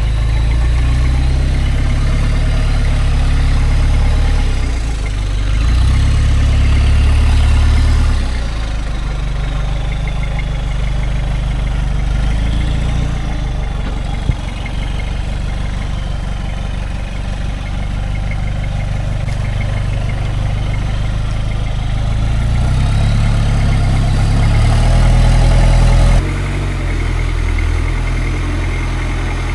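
3.0 turbo diesel engine of a modified Toyota LN106 Hilux at low revs while the truck crawls over rocks, with the engine note swelling under throttle twice and dropping away suddenly near the end. One sharp click about halfway through.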